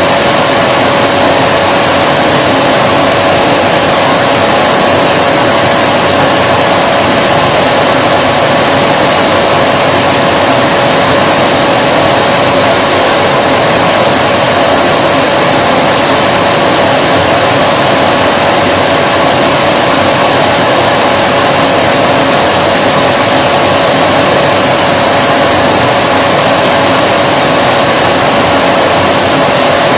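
Vacuum cleaner running continuously at a steady speed: a loud, even rush of air with a constant motor whine.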